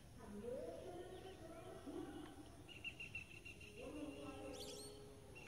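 Quiet outdoor ambience: a bird gives a high, steady trill for about two seconds, ending in a quick rising chirp. Under it runs a faint voice-like sound in the background.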